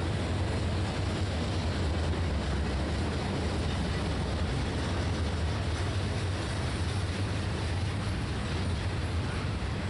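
Freight train of open gondola cars rolling past: a steady low rumble of steel wheels on rail with an even wash of noise.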